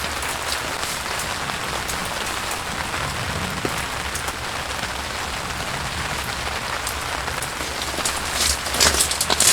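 Steady rain falling, with scattered sharper drop taps; near the end a run of louder, sharp ticks breaks in.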